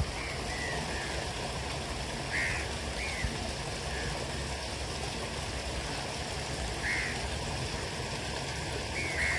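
Short bird calls over a steady background hiss, repeated several times, some in quick pairs.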